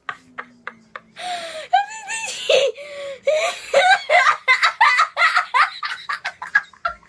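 People laughing: breathy bursts of laughter at first, then a quick run of short 'ha-ha' pulses.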